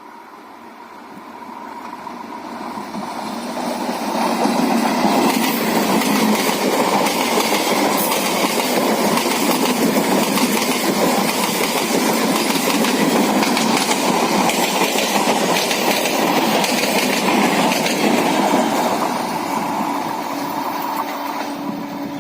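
Suburban electric local train (EMU) running past, its wheels clattering on the track. It builds up over the first few seconds, passes loudly, and eases off near the end.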